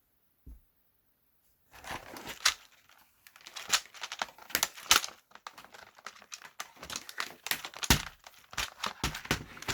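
Thin plastic being crumpled and handled: a soft knock about half a second in, then dense crinkling with many sharp crackles from about two seconds in.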